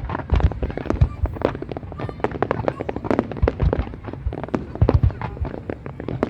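Fireworks going off in rapid succession: a dense run of sharp bangs and crackles, several a second, with deeper booms mixed in.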